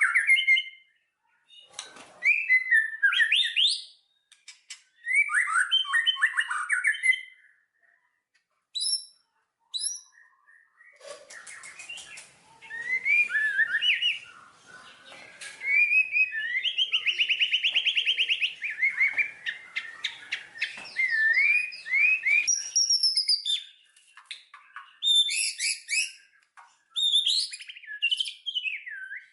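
Songbird singing in bursts of quick chirps and warbled phrases with short pauses between them, with a long fast trill about halfway through.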